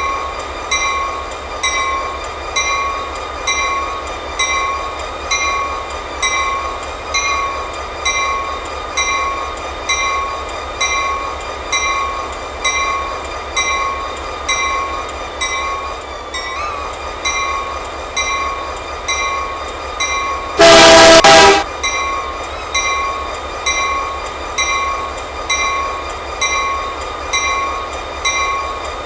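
A bell rings steadily about once a second over the low rumble of a passing train. About 21 seconds in, a locomotive horn sounds one loud blast lasting about a second.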